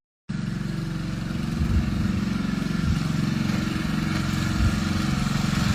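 An engine running steadily with a fast, even pulse, starting abruptly a moment in after a brief silence.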